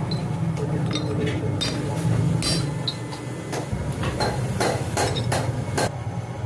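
Metal tools and engine parts clinking and knocking in an irregular series, some strikes ringing briefly, coming faster in the second half, over a steady low hum.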